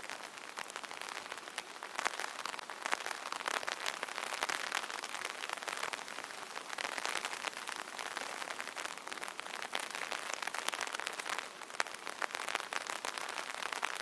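Steady light rain pattering on an open umbrella: a dense, continuous spatter of drops striking the taut canopy.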